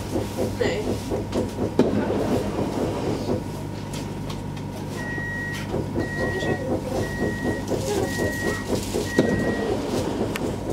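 Inside a stationary X50 electric regional train: the steady electrical hum of the train's equipment with a rhythmic pulsing about five times a second, and from about halfway in a run of five short, evenly spaced high beeps, the door-closing warning.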